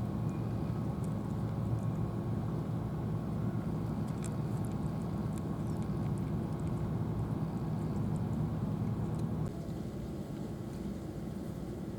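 A steady low engine rumble that drops in level about nine and a half seconds in.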